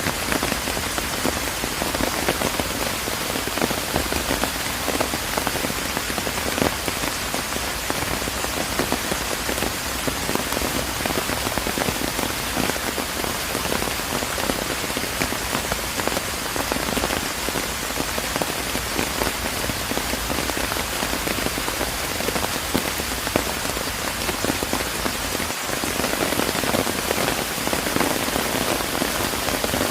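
Steady rain falling in a park, a dense even patter of drops hitting surfaces.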